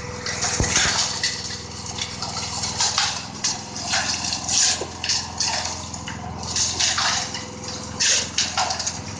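Wet concrete sloshing and pouring in irregular surges, over a steady low hum.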